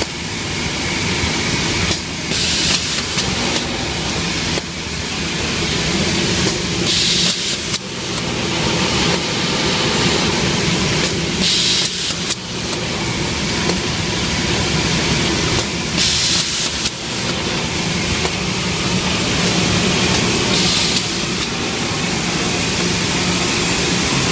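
Light-bulb production machinery running steadily, with a short burst of air hiss roughly every four and a half seconds over the constant clatter and hum.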